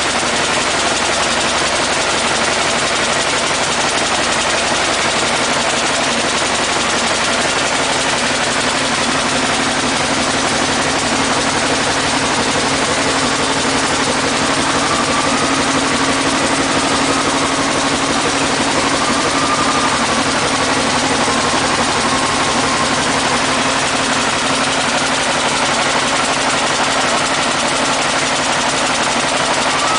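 Mitsubishi 8M21 V8 diesel truck engine idling steadily on an engine test stand.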